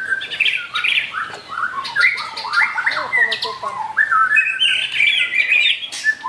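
White-rumped shama (murai batu) song: a dense, unbroken stream of quick, varied whistled phrases and chattering notes.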